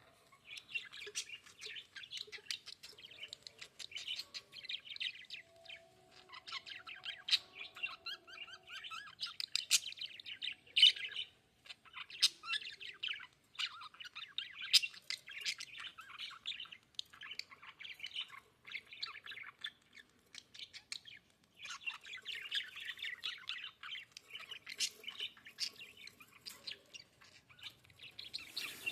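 Budgerigars chirping and chattering in a rapid, continuous warble of short high chirps, with brief lulls twice.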